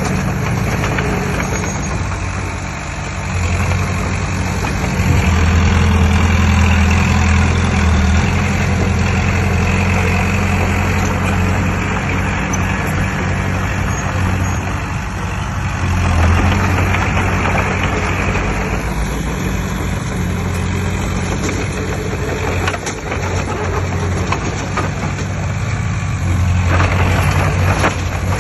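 Heavy diesel engine of earthmoving machinery running continuously with a deep low hum, swelling louder several times as it works under load.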